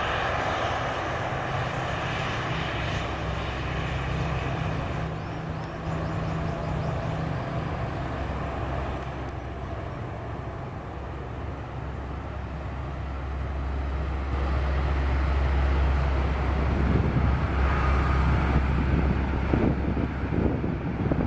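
Jet airliner engines rumbling steadily as the plane flies over, growing louder about two-thirds of the way in. Near the end, wind buffets the microphone in gusts.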